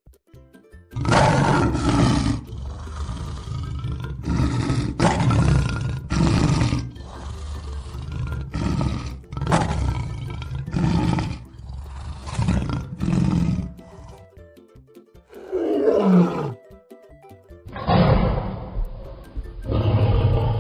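Lion roaring: a long run of deep roars and grunts one after another, then a falling moan and a few more roars near the end.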